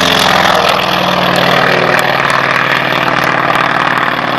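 Aircraft engine running steadily under a broad rushing noise. Its pitch eases down through the first second, then holds steady.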